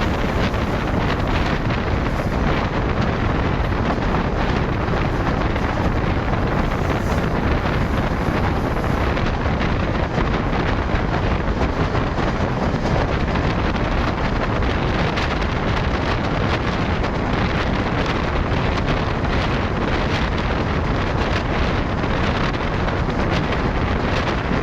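Steady wind buffeting the microphone, an even rushing noise with no change in level.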